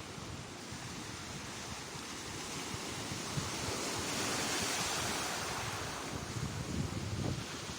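Sea waves breaking and washing on the shore, swelling to a peak a little past the middle and then easing off, with wind buffeting the microphone.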